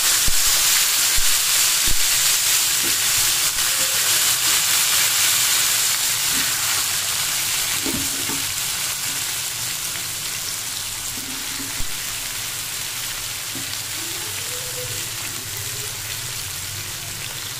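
Hot oil sizzling loudly as diced raw banana cubes hit the pan, with a few clicks of a steel spoon stirring them; the sizzle slowly dies down.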